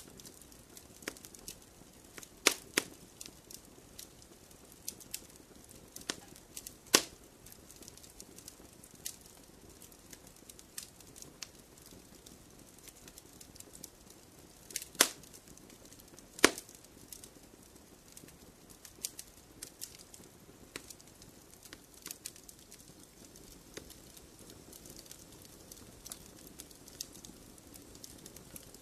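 Wood fire crackling in a fireplace: burning logs give off irregular small crackles over a soft hiss, with a few loud sharp pops scattered through it.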